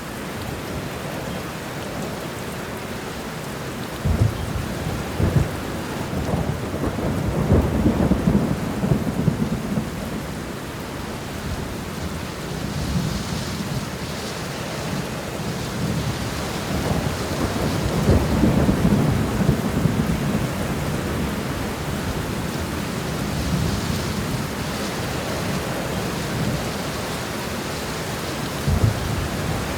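Steady heavy rain with thunder: sharp cracks about four and five seconds in and again near the end, and long rolling rumbles swelling twice, the second louder.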